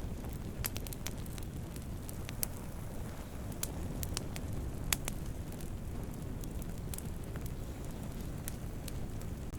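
Campfire burning wood, a steady low rumble of flames with irregular sharp pops and crackles, the loudest pop about halfway through.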